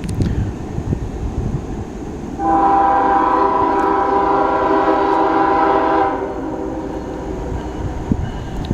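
Freight locomotive's air horn sounding one long chord of about three and a half seconds, starting a couple of seconds in, over the low rumble of the approaching train.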